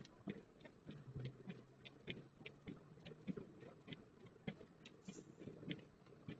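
Faint, quick irregular ticking, about three or four ticks a second, over a low rumble, inside a car pushing through unplowed snow.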